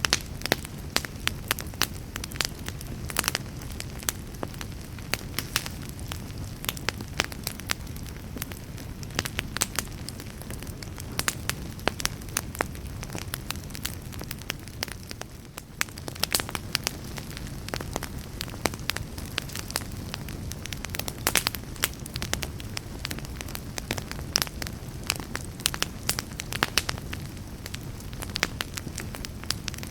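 Wood fire burning in a fireplace: a steady low rumble of the flames with frequent, irregular sharp pops and crackles.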